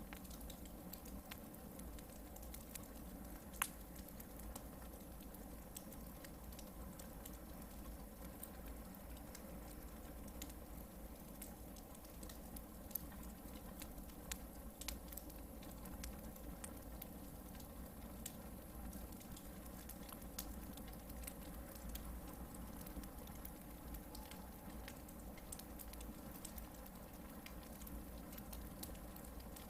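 Hardwood-log campfire burning quietly, with scattered small crackles and one sharper pop about three and a half seconds in.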